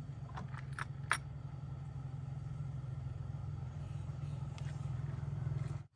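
A steady low motor hum with a few light clicks in the first second; it grows slightly louder and then cuts off suddenly near the end.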